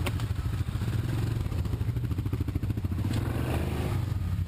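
A vehicle engine running steadily with a continuous low hum.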